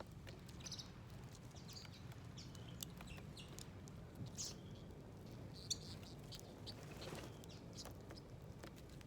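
Small birds giving short, faint chirps at irregular intervals, mixed with scattered light clicks and taps, over a low steady background rumble.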